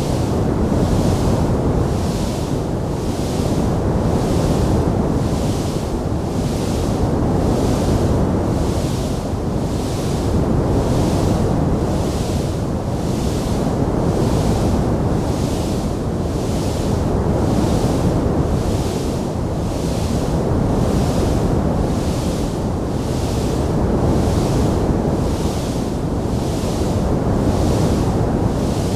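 Wood fire burning in a fireplace, a dense steady rushing noise of flames, with a hiss in the upper range that pulses about three times every two seconds.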